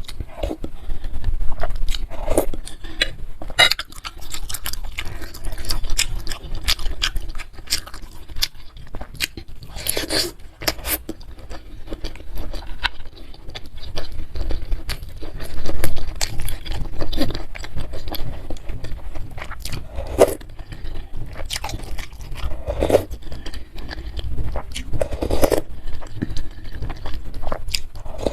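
Close-miked eating sounds: irregular wet chewing, biting and mouth clicks while eating meatball soup with noodles and soft chicken feet.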